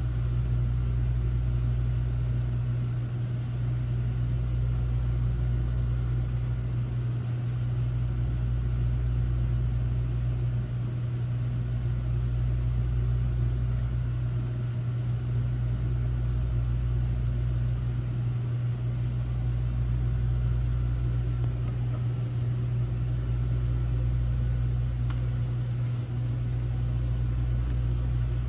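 Hotel room air conditioner running: a steady low hum with a deeper throb that dips briefly at a regular pace, about every four seconds.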